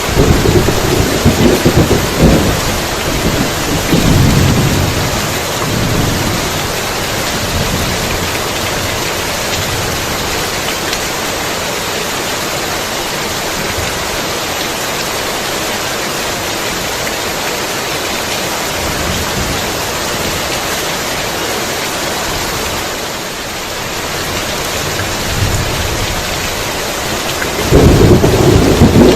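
Heavy rain falling steadily, with rolling thunder in the first few seconds and a loud thunderclap rumbling again near the end.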